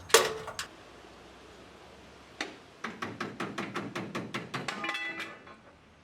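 A sharp metal clunk, then a hand ratchet wrench clicking in quick even strokes, about five a second, while working a bolt loose on the engine of an air-cooled VW bus.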